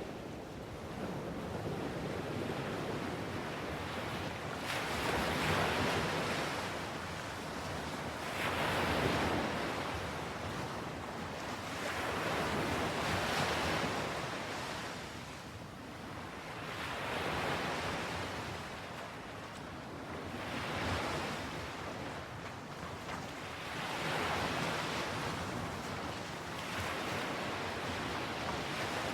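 Ocean waves breaking and washing on a shore, in steady surges that swell and ease about every four seconds.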